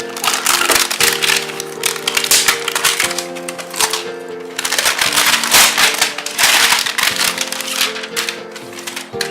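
Packaging crinkling and crackling in bursts as a smartwatch box is unpacked by hand, over calm background music with held chords that change every couple of seconds.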